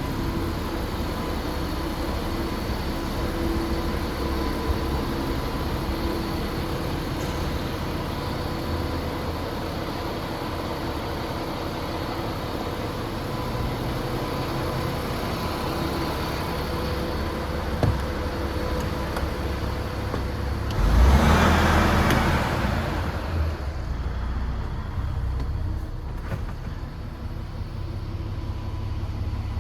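DAF XF106 truck's Paccar MX-13 straight-six diesel idling steadily, with a single click about two-thirds of the way through and then a loud rush of noise that lasts about two seconds before dying away.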